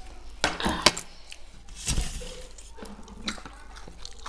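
Close-miked eating of raw potato pieces: crisp bites and chewing, with a few sharp clicks, the loudest about a second in and again about two seconds in.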